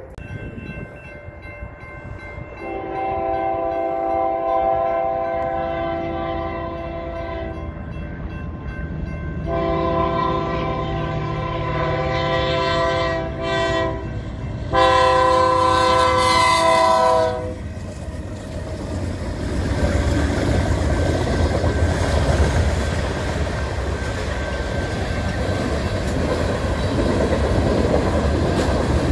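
BNSF freight locomotive's multi-chime air horn sounding the grade-crossing signal: long, long, short, long, with the last blast the loudest. The train then rolls through the crossing, locomotive and freight cars rumbling with wheels clacking over the rails.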